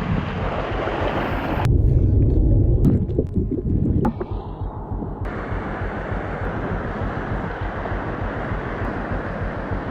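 Waterfall rushing as a steady noise. It is broken from about two to four seconds in by a loud low rumble on the microphone.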